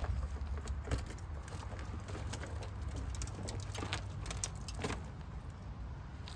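Scattered light metallic clinks and taps over a steady low rumble.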